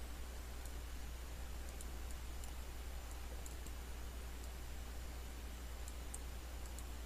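Faint, scattered clicks of a computer mouse and keyboard, about a dozen spread irregularly, over a steady low electrical hum and hiss.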